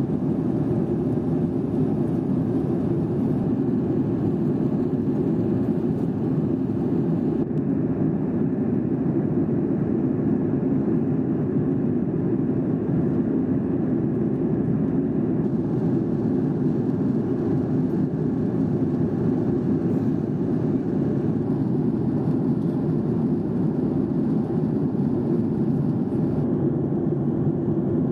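Steady cabin noise inside a Boeing 737-800 in flight: the even rush of its jet engines and the air streaming past the fuselage, unchanging throughout.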